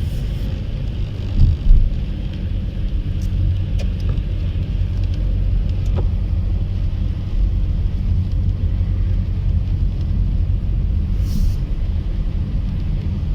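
A car being driven: a steady low rumble of engine and tyre noise, with two loud knocks about a second and a half in.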